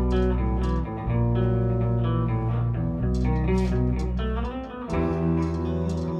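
Guitar music: plucked notes over a bass line that changes about every second.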